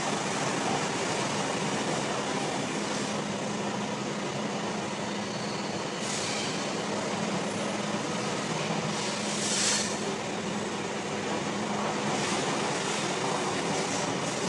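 Inside a moving passenger train carriage: the steady rumble and hum of the train running, with a few brief high-pitched sounds along the way, the loudest about nine and a half seconds in.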